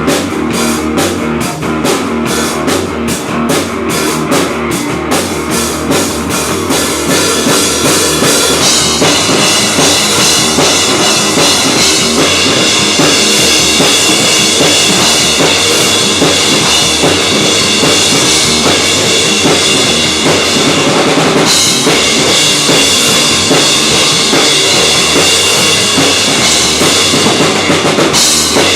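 Rock band playing live on drum kit and guitar: even, quick drum hits at first, then from about nine seconds a loud, dense wash of cymbals over the band.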